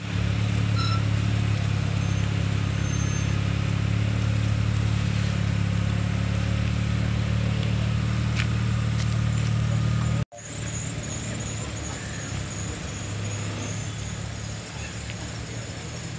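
Steady low hum of car engines idling and running slowly in a crowded parking lot. It cuts out for an instant about ten seconds in and then carries on quieter.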